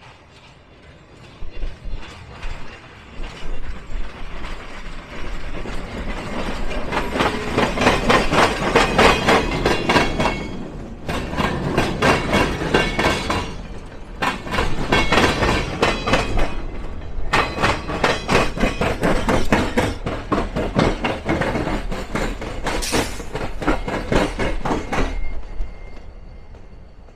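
Train cars rolling past, their wheels clacking rapidly over the rail crossing diamond. The clatter builds over the first several seconds, dips briefly a few times and fades near the end.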